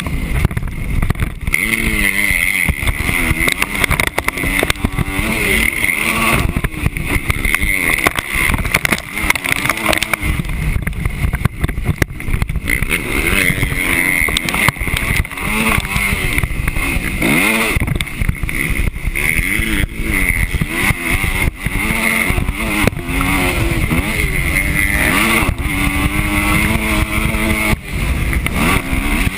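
Motocross bike engine heard from a camera mounted on the bike, revving up and dropping back over and over as the rider throttles and shifts around the track, over a steady rumble of wind and track noise.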